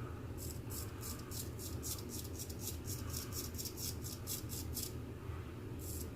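Straight razor scraping through several days' stubble in quick short strokes, a crisp rasp about four or five times a second, with a brief pause near the end before a few more strokes. The shaver calls the pass rough, with the blade not quite sharp enough for the growth.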